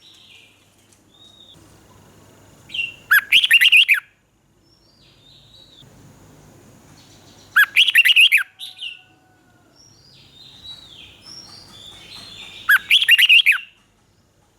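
Red-whiskered bulbul singing: three loud, quick, warbling song phrases of about a second each, spaced roughly five seconds apart, with fainter chirps from other birds between them.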